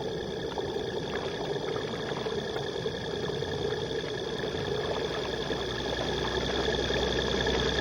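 Steady mechanical hum with several constant whining tones over a low drone, slowly getting a little louder near the end.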